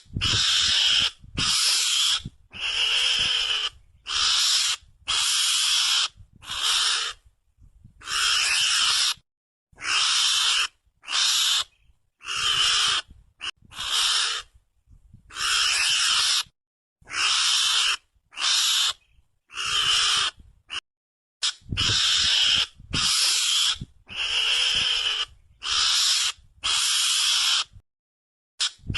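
Mongoose lure call: a long run of short, harsh calls, each under a second long, with brief gaps between them, about twenty in all.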